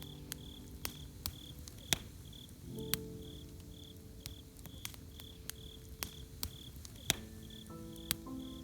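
Campfire crackling with scattered sharp pops, over a cricket chirping steadily about two to three times a second. Soft held music chords come in about three seconds in and again about seven seconds in.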